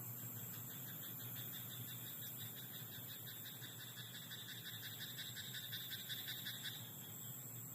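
A frog in a rice paddy croaking in one long run of rapid pulsed calls, several a second, which stops suddenly near the end, over a steady faint hiss.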